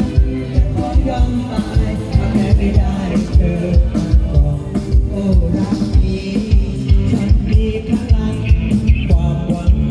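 Band music with a steady drum beat under sustained instrumental melody, with little or no singing.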